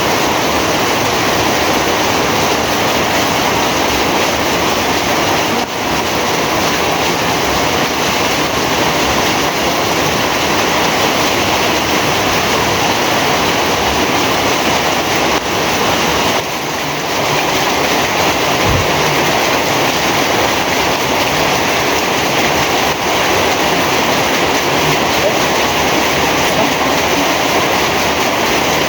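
Heavy rain falling steadily, a dense even hiss that dips briefly twice.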